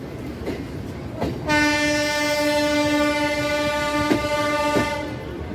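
Train horn sounding one long steady note, starting about a second and a half in and lasting about three and a half seconds, over the rumble of a moving train with a few sharp knocks.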